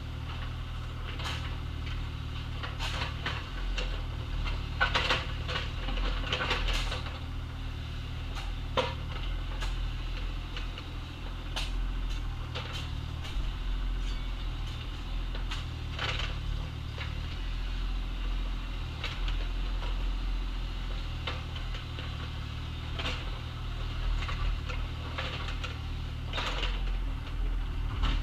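Excavator engine running steadily as the machine digs, with scattered knocks and short scrapes from the work.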